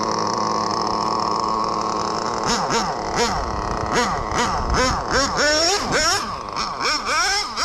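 Small .12 nitro engine of a 1/10 Kyosho FW06 RC touring car, running at a steady high pitch, then blipped up and down in quick throttle bursts, about two a second from a little over two seconds in.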